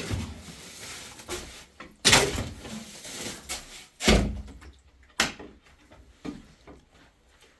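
A series of knocks and bangs, one every second or so, the loudest near the start and about four seconds in, growing fainter toward the end.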